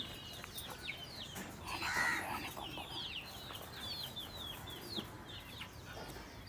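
Birds chirping: a steady run of short, falling high chirps, several a second, with a louder, harsher call about two seconds in.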